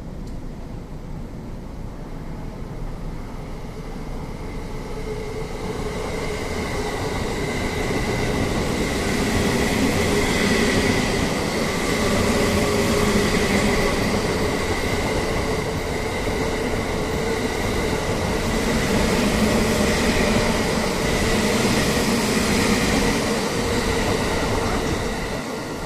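JR 285 series 'Sunrise Izumo/Seto' sleeper electric train passing through a station without stopping. The rolling noise of the train builds over the first several seconds, stays loud with a steady hum and a higher whine, then eases off near the end.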